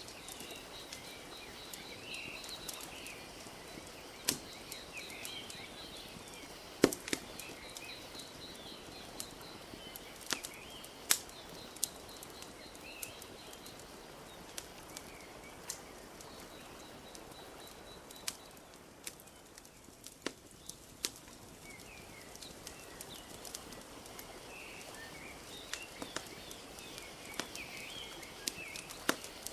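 Wood fire crackling, with sharp irregular pops, over a soft steady wash of lake water lapping. Small birds chirp and trill throughout.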